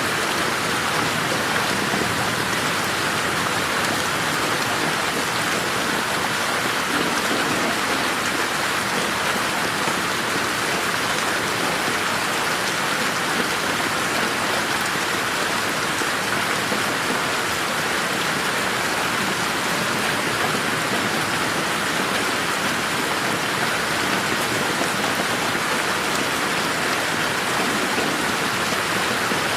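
Steady rain falling in a garden, an even, continuous patter of drops with no thunder, panned around the listener in 8D.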